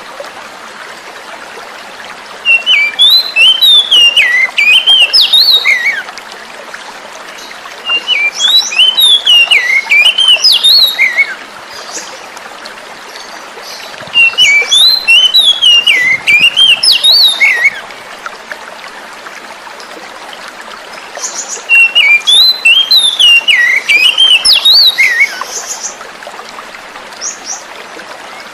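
Oriental magpie-robin (kacer) singing in four bouts of quick, up-and-down whistled phrases, each three to four seconds long, over a steady rush of running water.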